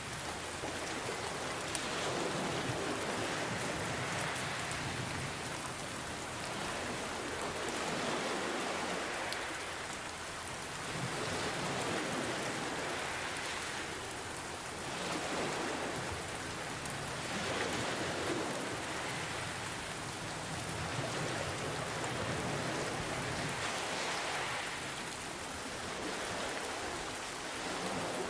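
Steady rain mixed with ocean waves washing in, the rush of noise rising and falling every three or four seconds.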